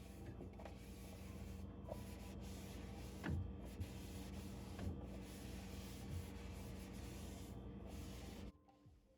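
Rubbing and scrubbing over a faint steady hum, with a few light knocks and clicks as things are handled while a fridge is cleaned. The sound cuts off abruptly near the end.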